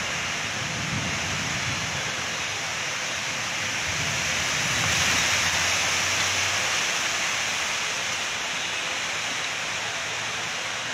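Heavy rain pouring steadily, a dense even hiss that swells a little about halfway through.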